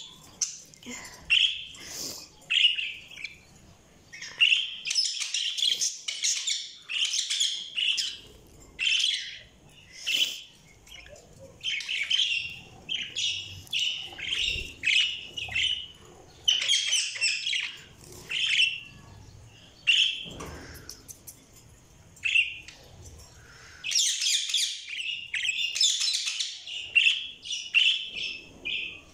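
Budgerigars chirping and warbling in repeated bursts of quick high chirps, with brief pauses between phrases.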